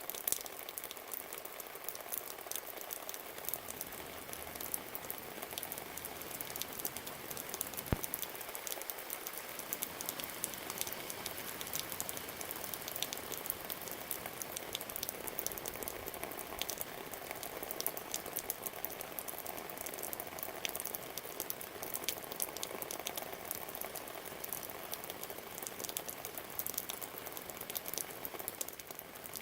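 Rain falling steadily, a dense patter and crackle of drops hitting nearby surfaces, with one sharper drip-tap about eight seconds in.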